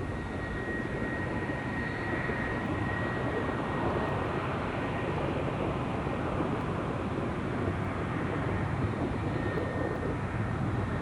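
Jet airliner engines at the airport, a steady rushing noise with a faint high whine at the start and briefly again near the end.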